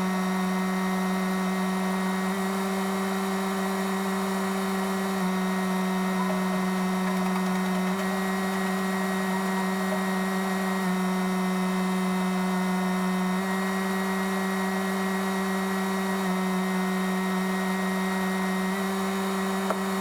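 Steady mechanical hum at one unchanging pitch, with no break or change in speed.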